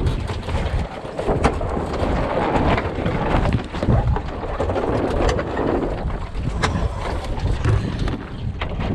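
Wind buffeting the microphone over water splashing and rushing along the hull of an Enterprise sailing dinghy under way, with a few sharp knocks and taps from the boat.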